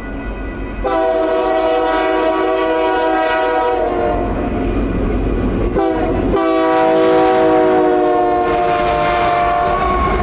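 Diesel locomotive's air horn sounding a chord of several tones: one long blast starting about a second in, a brief break, then a second long blast, over the low rumble of the moving train.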